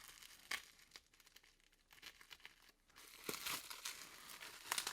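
Bubble wrap being handled and pulled open, faint crinkling and crackling, with a short lull in the middle and busier crinkling over the last couple of seconds.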